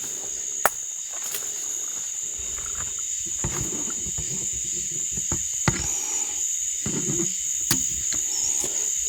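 Steady high-pitched chorus of night insects, with a fainter low sound in the distance that is likened to talking, and two sharp clicks.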